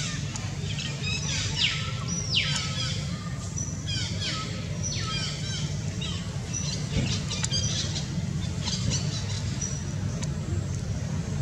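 Birds chirping in quick runs of short, high, downward-sweeping notes, thinning out toward the end, over a steady low hum.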